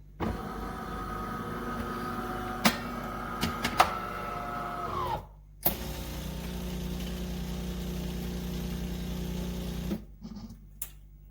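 De'Longhi Dinamica Plus automatic espresso machine running its shut-down cleaning cycle: a steady mechanical hum with a few sharp clicks, its pitch sagging as it winds down about five seconds in. After a short break a deeper steady hum runs for about four seconds and stops.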